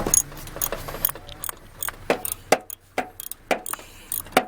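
Irregular metal clicks and clinks of hand tools on a car battery's hardware as the old battery is taken out.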